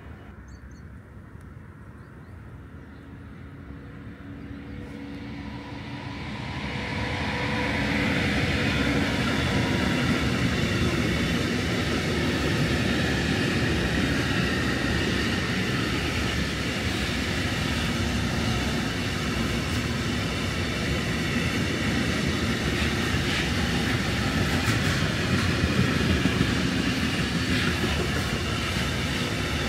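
A train approaching, growing louder over the first seven seconds or so, then passing close by with a loud, steady rumble of wheels on rail.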